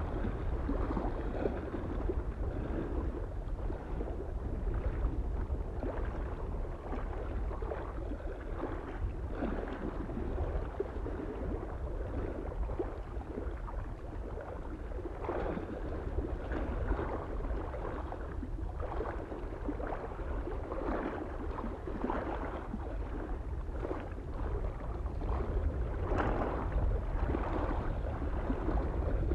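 Small waves lapping and splashing irregularly against a lake shore, over a steady low rumble of wind on the microphone.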